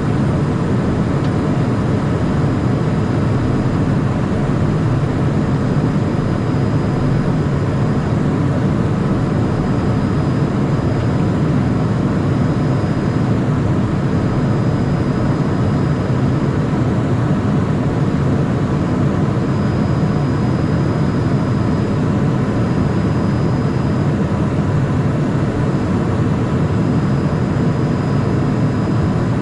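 Steady cabin noise of a Cessna Citation Mustang light jet in flight: a constant rush of engine and airflow noise, heaviest in the low range, with faint steady whines above it and no change in pitch or level.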